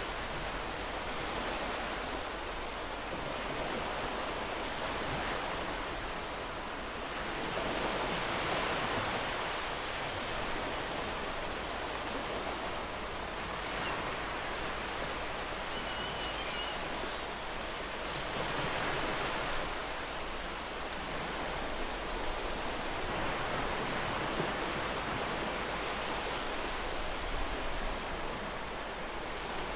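Ocean waves breaking and washing on a shore: a continuous rushing hiss that swells and eases every several seconds.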